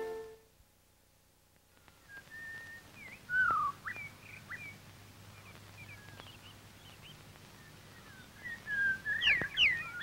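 Music fades out in the first half second, then after a short silence birds chirp and whistle in short calls and quick rising and falling notes, sparse at first and busier near the end.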